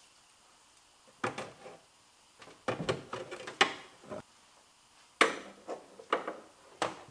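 Angled pliers squeezing and working a plastic trim clip out of the rear spoiler mount on a Toyota AE86 Corolla hatch: a run of sharp clicks and short scraping rattles with brief pauses between them.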